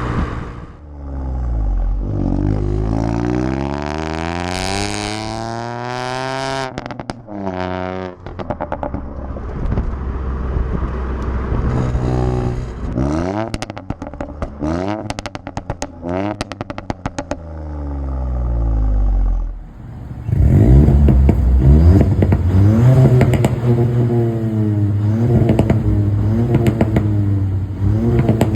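Ford Fiesta ST Mk8's turbocharged three-cylinder engine and exhaust accelerating hard, the pitch rising through the revs several times. A rapid run of sharp crackles and pops comes from the exhaust midway, and near the end there are repeated quick rev rises and falls.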